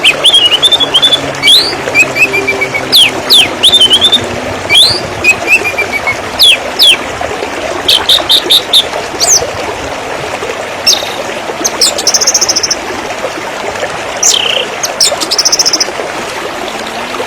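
Songbirds chirping and calling over a steady trickle of running water: many short, sharp downward-sweeping chirps, with a few quick buzzy trills about 8, 12 and 15 seconds in.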